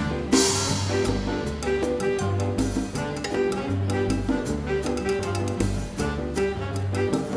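Live Latin dance band playing an up-tempo number: repeating bass notes under held chords, with a steady percussion beat. A cymbal crash comes just after the start.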